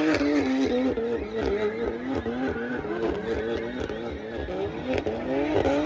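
A car engine revving hard, its pitch rising and falling quickly over and over.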